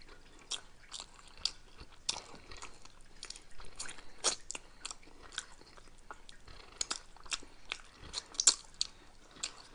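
Close-miked chewing of Flaming Hot Cheetos nachos, with irregular crisp crunches and crackles as the food is bitten and chewed.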